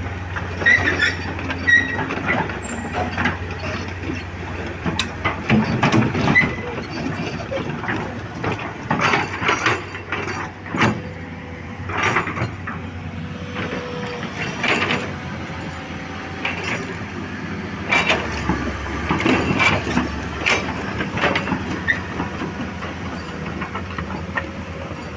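Heavy diesel construction machinery, likely an excavator at road-widening work, running with a steady low engine hum. Irregular metallic clanks and knocks of earth and rock being worked sound repeatedly over it.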